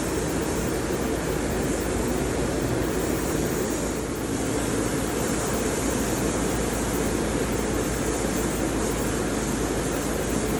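Steady, even rushing noise with a low hum underneath, unchanging throughout, with no distinct knocks or strokes.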